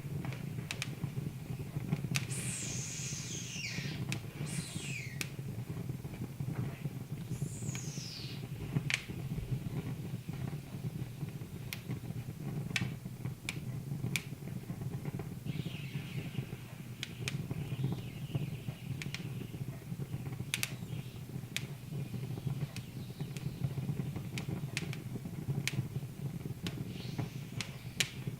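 Wood fire burning in a fireplace, crackling with scattered sharp pops over a steady low hum. In the first ten seconds there are three high whistles that fall in pitch.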